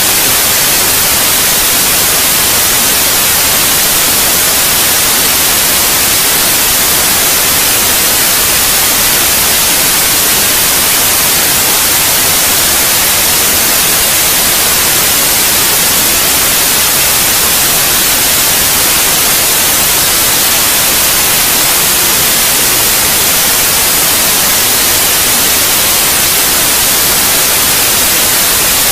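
Steady, unbroken white noise: an even hiss, strongest in the treble, with no rise, fall or pattern. It is played as a sleep sound for babies.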